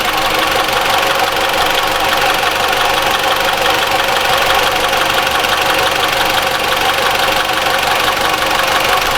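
Mitsubishi ASX 1.8-litre petrol inline-four idling steadily with a fine fast ticking, running smoothly: the intermittent rattle reported from the belt drive is not present.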